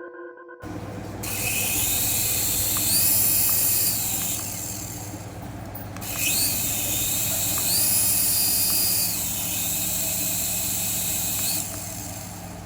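Battery-powered toy whirring steadily with a low hum, while an electronic whine rises, holds and falls again every few seconds.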